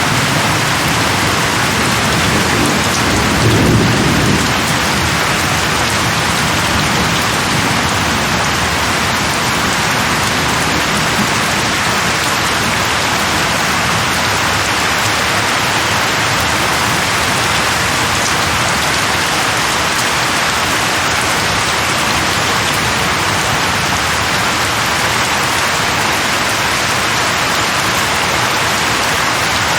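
Steady heavy rain falling on leaves, with a low roll of thunder swelling and fading a few seconds in.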